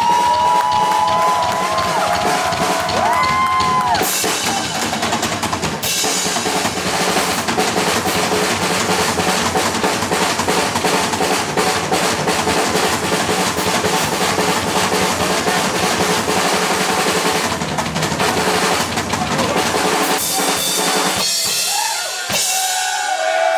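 Heavy metal band playing live, with the drum kit to the fore: fast, dense bass drum and snare hits and rolls. Held electric guitar notes ring out at the start and come back near the end.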